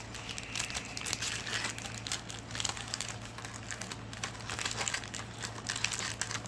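Plastic packaging crinkling and crackling in irregular bursts as it is handled, over a faint steady low hum.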